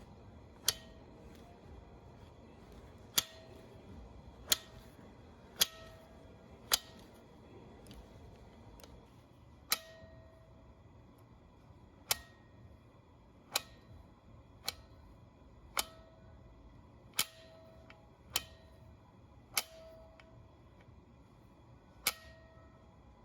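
Sharp metallic clinks, about fourteen at irregular intervals, each with a short ring: metal engine parts and tools being handled and set down while an overhauled engine's bottom end is assembled.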